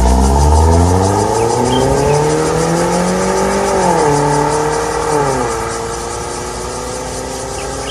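Mercedes-Benz C180 Estate's M271 four-cylinder engine through an MS-R valved cat-back exhaust, pulling hard under acceleration. The pitch climbs steadily, drops sharply twice about 4 and 5 seconds in as the gearbox upshifts, then rises gently again.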